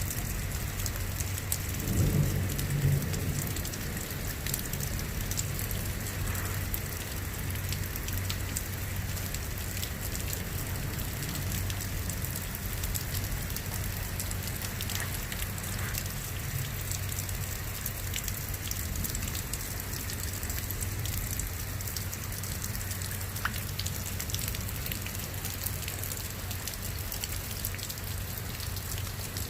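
Steady rain falling, with many individual drops ticking close by, over a steady low hum. A brief low rumble comes about two seconds in.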